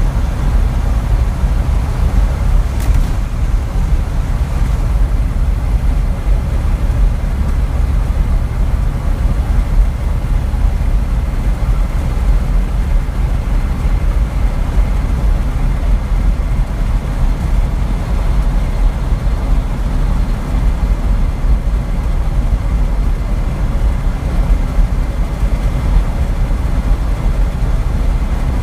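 Steady low rumble of a truck driving along the road, its engine and tyre noise running evenly without change.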